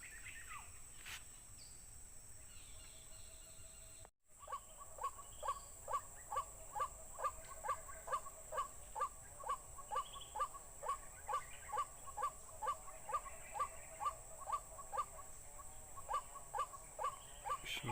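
An animal call repeated steadily, about two short hooked notes a second, starting after a sudden break about four seconds in.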